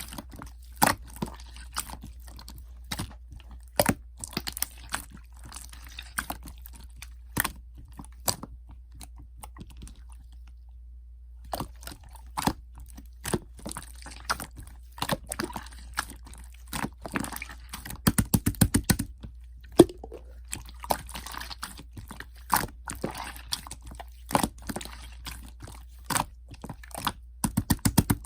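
Clear slime being squished and pressed, making irregular sticky clicks and small air-bubble pops, with two quick runs of rapid clicking, one past the middle and one near the end; a low steady hum sits underneath.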